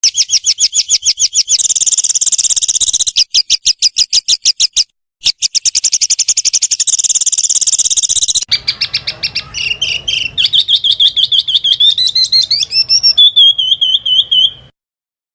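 Small songbird singing loud, rapid-fire strings of high repeated notes, the 'tembakan' bursts prized in contest birds. The phrases break off briefly twice. About two thirds of the way through the song changes to quicker trills with rising notes, then stops shortly before the end.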